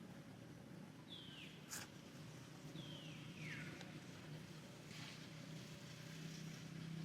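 A baby monkey giving two short, high calls that fall in pitch, about a second and a half apart, with a sharp click between them, over a steady low hum.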